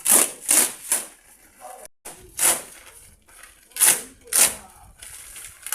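A series of short, rough scraping strokes, mostly in pairs about half a second apart, with pauses between the pairs.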